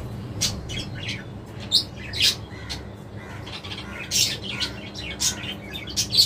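Budgerigars chirping and squawking: short, sharp calls come irregularly, a few every second.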